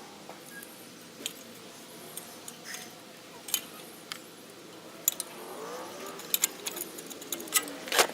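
Scattered light metallic clicks and clinks of hand tools working on a bench grinder during disassembly, with the sharpest clink near the end.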